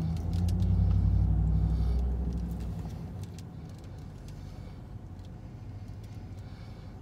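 A motor vehicle's engine, a low hum that is loud for the first two seconds or so and fades away by about three seconds in. The foil-paper sandwich wrapper crinkles in the hands with short light rustles throughout.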